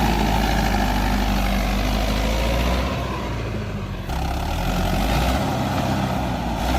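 Mahindra 585 XP Plus tractor's diesel engine running steadily, easing off briefly about three seconds in before picking up again.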